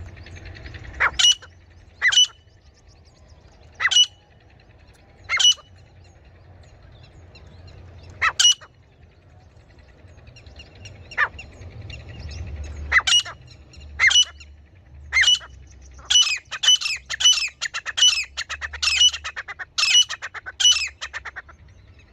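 Female grey francolin calling: short, sharp rising notes, single ones a second or more apart, then a fast run of about two a second in the last few seconds. A faint low rumble lies underneath.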